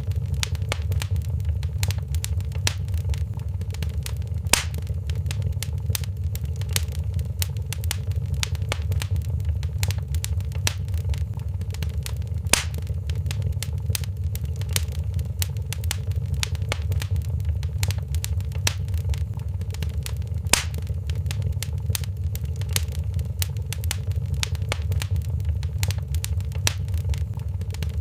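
Wood fire in a fireplace crackling steadily over a low rumble of flames, with three louder pops about eight seconds apart.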